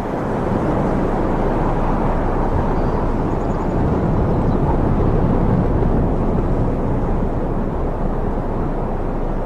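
A loud, steady low roar with no distinct events, swelling a little in the middle.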